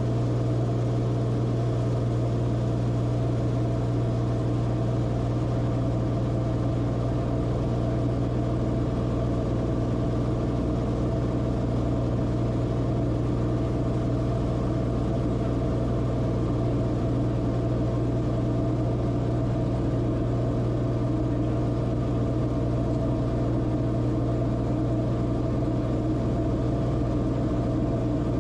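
Steady drone of the Cessna Corvalis TTX's turbocharged six-cylinder engine and propeller: a strong low hum that holds one pitch throughout.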